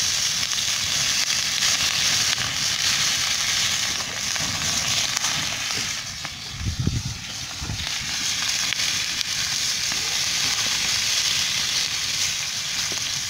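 Fish frying in a pan with a thin layer of fat, sizzling steadily. About halfway through the sizzle dips briefly and there are a few low knocks.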